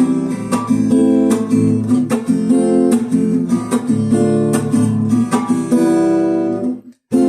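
Acoustic guitar strumming chords in an instrumental break of a song. The chords die away and stop briefly near the end, then the strumming starts again.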